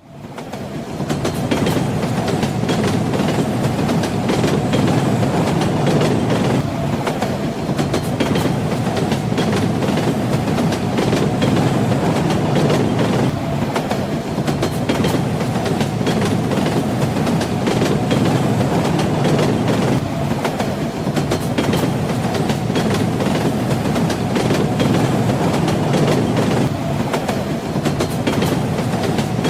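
Train in motion: a steady low rumble with the knocking of wheels over the rails, fading in over the first second.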